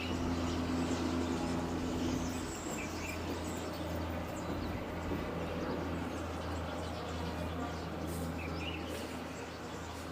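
Outdoor ambience: a steady low rumble of distant engine noise under a hiss, with a few short bird chirps.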